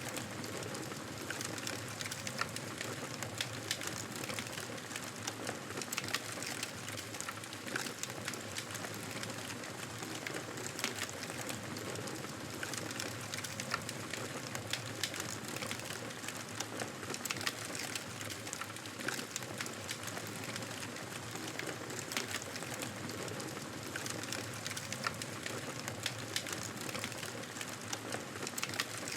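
Wood fire burning in a fireplace: a steady hiss of flames with many small, irregular crackles and pops from the burning wood.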